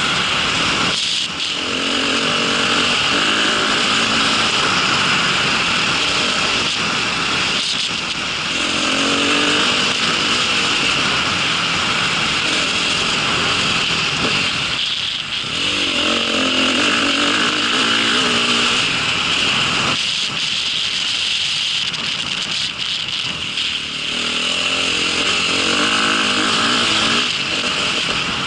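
A vehicle engine running while under way, over a steady loud rush of wind and motion noise. The engine note swells and fades every several seconds.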